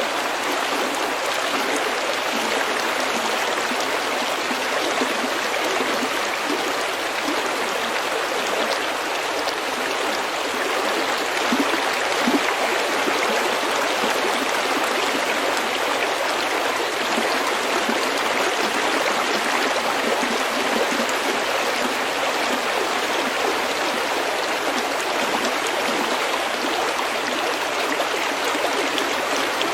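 Stream water running steadily over pebbles, a continuous babbling and gurgling rush.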